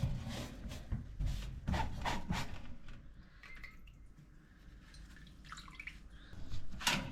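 Wet sponge wiping the inside of a toaster oven, with soft rubbing strokes and water squishing and dripping; the strokes thin out after about three seconds.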